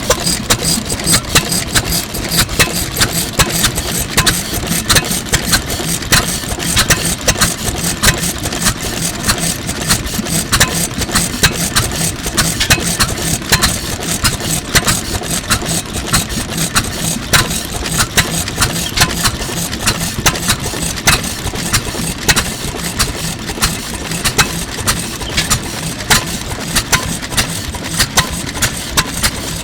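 Circa-1923 Fairbanks-Morse Type Z 3 hp single-cylinder stationary engine running steadily, with a sharp beat repeating several times a second.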